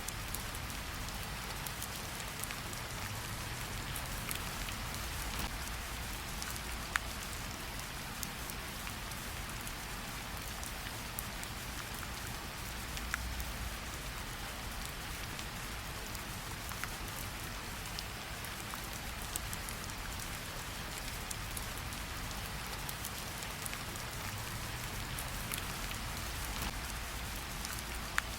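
Steady rain falling, an even hiss of rainfall with scattered sharper drips of single drops and a soft low rumble beneath.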